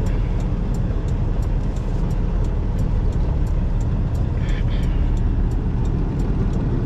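Semi-truck diesel engine running with a steady low rumble and a faint, evenly spaced ticking, with a brief higher squeak about four and a half seconds in.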